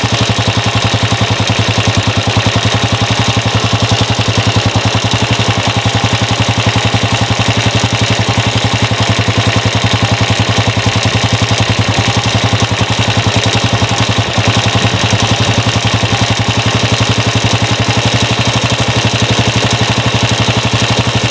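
Honda CG125's single-cylinder four-stroke engine idling steadily with an even, rapid pulse, while the carburettor's mixture screw is turned out to set the air-fuel mixture at the point of fastest idle.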